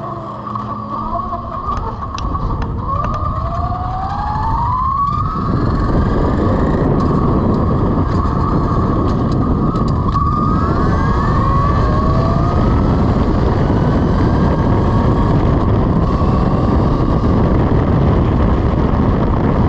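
Electric motorcycle at speed: the motor's whine rises in pitch under acceleration, breaks off about five seconds in, and climbs again about ten seconds in. Heavy wind noise on the microphone builds after the first climb and stays loud.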